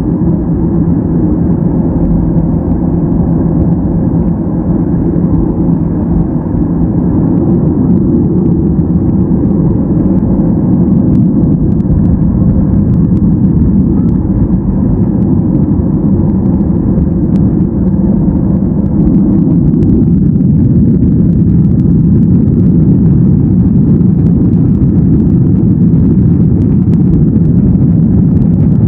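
Boeing 737-800 cabin noise heard from a seat behind the wing: the CFM56 jet engines and airframe give a loud, steady low rumble with a constant hum, which grows a little louder about two-thirds of the way through.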